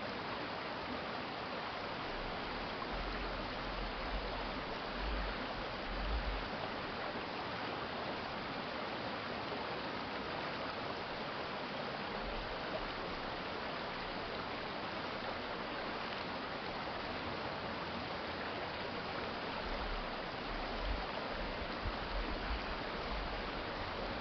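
Urban stream flowing: a steady rush of running water. Brief low rumbles come twice, a few seconds in and again near the end.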